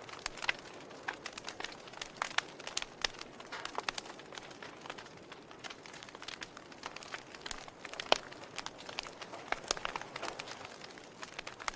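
Fire burning, crackling with irregular sharp pops over a soft steady hiss; one louder pop about eight seconds in.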